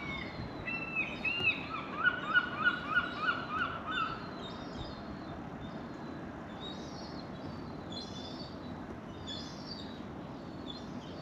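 A bird calling outdoors: a run of short, harsh calls, about four a second, over the first four seconds. Fainter, higher chirps from other birds follow over a steady low background noise.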